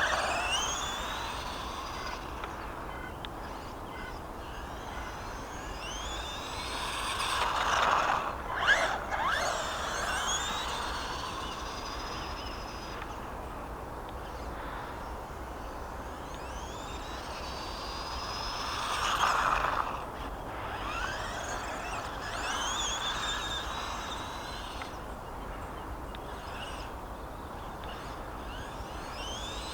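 Small RC truck's brushed 370 electric motor whining and rising in pitch again and again as the truck accelerates, over a steady rush of tyres on rough ground. It swells louder twice as the truck comes close, with a sharp knock about nine seconds in.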